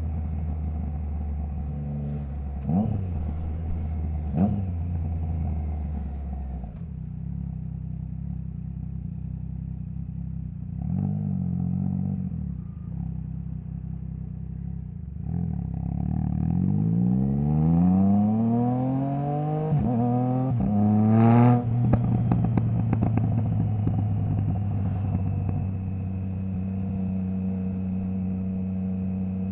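Triumph Trident 660's inline three-cylinder engine through a stainless Zard full exhaust with the baffle removed. It runs steadily with two short throttle blips early on, goes quieter off the throttle, then accelerates hard with the revs climbing and dropping back through several quick upshifts. A sharp crack comes at the last shift, and it settles into a steady cruise.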